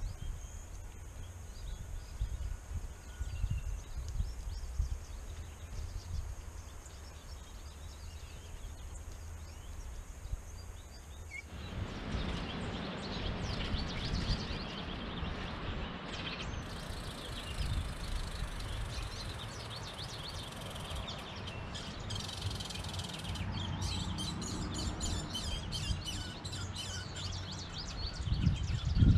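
Many small birds chirping and calling, a busy overlapping mix of short high notes, starting abruptly about halfway through; before that only a low rumble.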